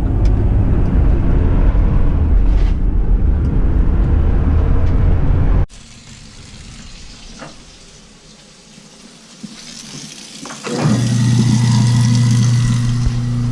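A loud, low rumbling noise that cuts off abruptly about five seconds in; after a quieter stretch, a steady electric-motor hum starts near the end and runs on.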